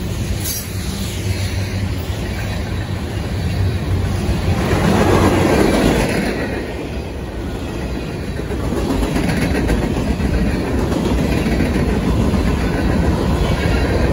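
A freight train's cars rolling past: open hoppers, centerbeam flatcars and covered hoppers, their wheels running on the rails in a steady rumble that swells louder about five seconds in.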